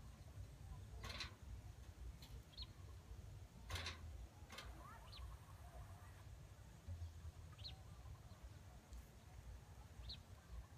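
Quiet outdoor ambience: a bird gives four short, high chirps about every two and a half seconds over a faint low rumble, with a few sharp clicks, the loudest about a second in and just under four seconds in.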